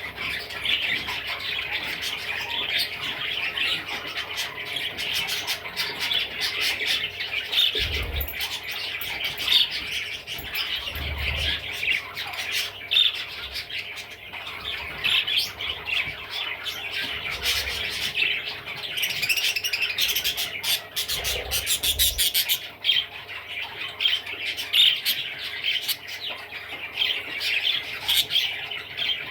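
Budgerigar chattering and warbling without a break, a busy stream of rapid chirps and clicks, with a few dull bumps now and then.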